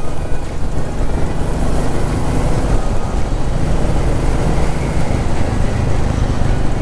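Royal Enfield Classic 350's single-cylinder engine running steadily under way, with road and wind rush.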